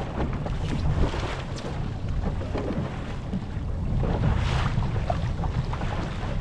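Boat motor running steadily at trolling speed, a continuous low hum, with wind buffeting the microphone.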